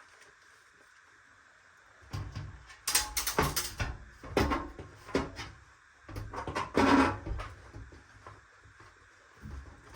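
A run of knocks, clicks and rattles from parts and panels being handled, starting about two seconds in and dying away after about seven seconds.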